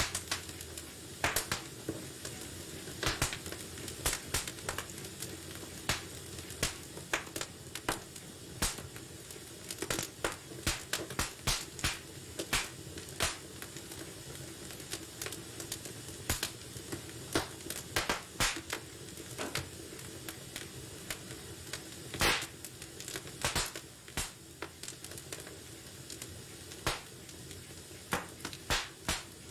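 Wood fire burning in a fireplace: a steady soft hiss with irregular crackles and pops from the burning logs, a few sharper pops standing out.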